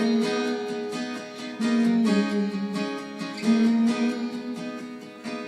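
Acoustic guitar strummed in a steady rhythm, a short instrumental passage with the chords changing every second or two.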